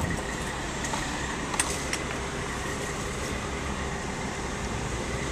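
Diesel engine of heavy equipment running steadily, with a few light clicks.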